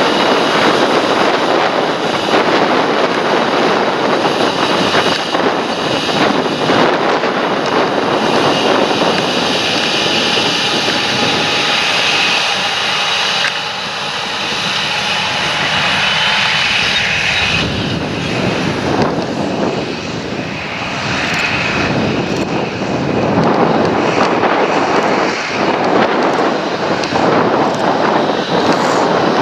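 Large John Deere tractor's diesel engine running steadily under field load, with a high whine that cuts off suddenly about two-thirds of the way through.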